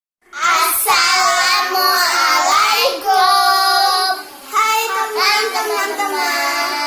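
A child singing in a high voice with long held notes, pausing briefly about four seconds in.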